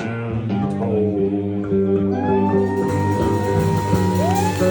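Country band music: guitars play an instrumental passage after the sung line ends, holding notes, with a lead line that bends up and down near the end.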